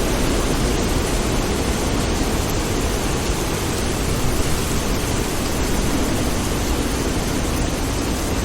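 Steady heavy rain: a dense, even hiss with a deep low rumble underneath and no separate thunderclap.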